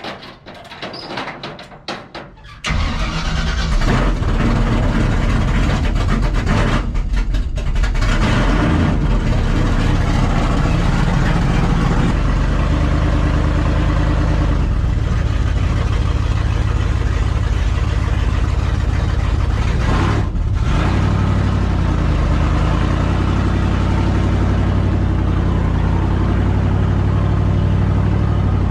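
Cammed small-block Chevy V8 in a squarebody truck starting about two and a half seconds in after a few knocks, then running loud and steady, with short dips near 7 and 20 seconds.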